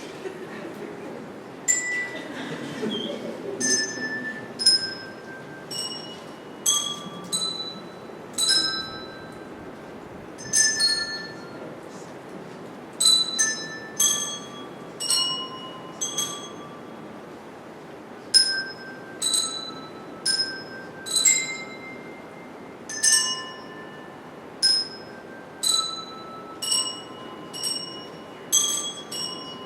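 A group of bell players ringing a slow melody, one clear bell note at a time, about one a second, each note ringing briefly before the next.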